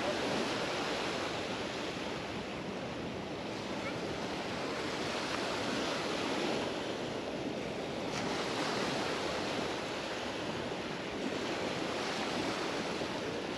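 Mediterranean sea waves washing onto the beach: a steady rushing that swells and eases every few seconds.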